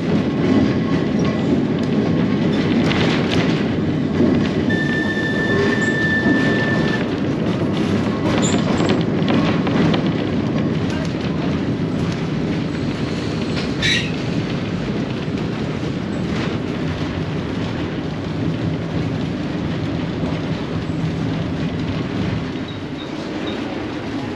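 Manx Electric Railway tram running along its track with a steady rumble of wheels on rail. A high wheel squeal comes in for about two seconds some five seconds in, and there is a sharp click about fourteen seconds in. The running gets quieter near the end.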